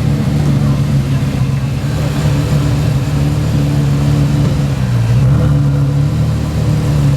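Porsche Carrera GT's 5.7-litre V10, breathing through a straight-through exhaust with the cats removed, running at steady low revs. Its note dips slightly about five seconds in, then comes back up.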